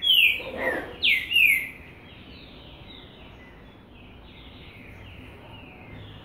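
A bird singing: a quick run of loud, downward-sliding whistled notes in the first couple of seconds, then fainter notes of the same shape repeating.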